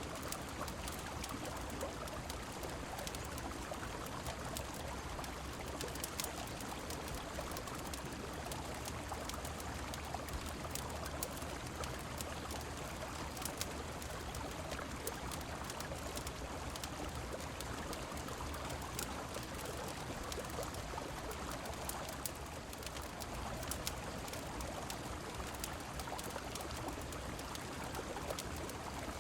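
River water flowing steadily with rain, a continuous rushing wash, mixed with frequent small sharp crackles like those of a wood fire.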